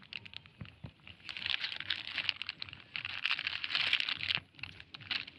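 Plastic crinkling and rustling as it is handled, a long stretch of crackly crinkling starting about a second in and easing off near the end.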